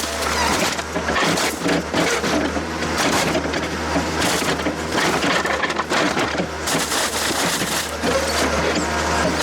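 A heavy scrap-handling machine pulling apart a scrap Peugeot 207, dismantling the car to rip its engine out: continuous crunching and tearing of metal over the steady drone of the machine's engine.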